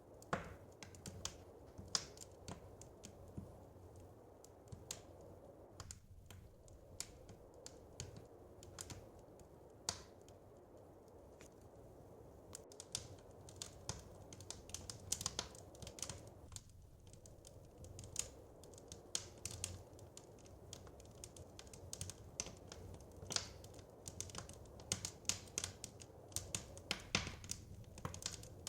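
Wood fire crackling, with irregular sharp snaps and pops over a low steady hiss. The pops come sparsely at first and grow quicker and busier in the second half.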